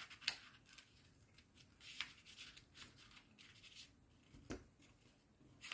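Faint rustling and creasing of a sheet of A4 paper being folded by hand into a triangle, with a few soft crackles, the clearest about three-quarters of the way through.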